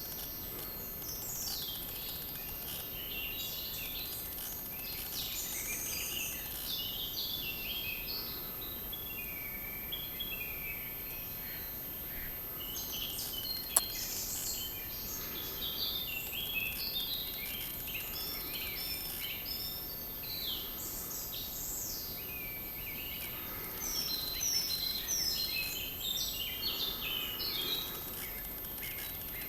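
Woodland songbirds singing and chirping, many short overlapping calls and trills, busiest and loudest near the end. A single sharp click about 14 seconds in.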